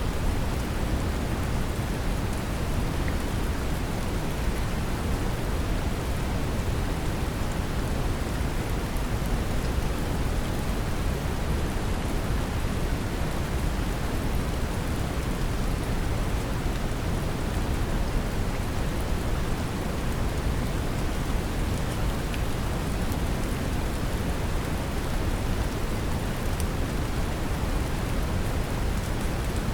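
Steady brown noise, deep and rumbling, mixed with gentle rain, with a few faint drop ticks.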